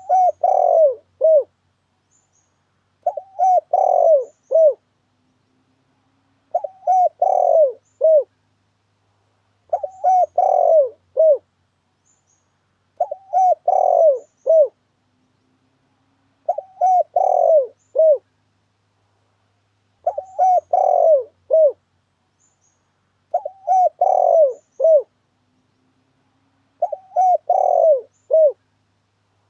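Spotted dove (tekukur) cooing, played as a trapping lure call. The same multi-note coo phrase repeats about every three and a half seconds, nine times, with silence between phrases.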